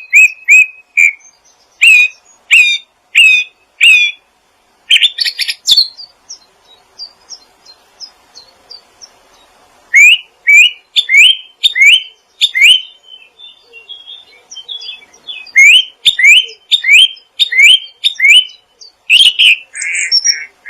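Songbird singing in loud phrases of short, quick chirps that sweep upward, several a second. There is a longer pause in the middle, filled with faint, softer twittering.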